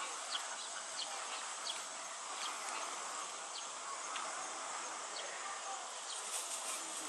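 A steady outdoor insect drone, with short high chirps dotted through it at irregular intervals.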